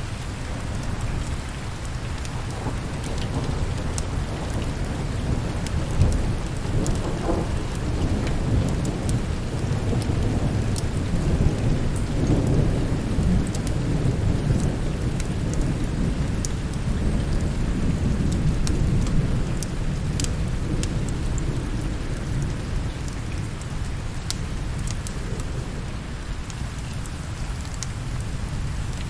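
Steady rain with a long, low roll of thunder that builds a few seconds in, rumbles through the middle and eases off near the end. Scattered sharp clicks are heard over it.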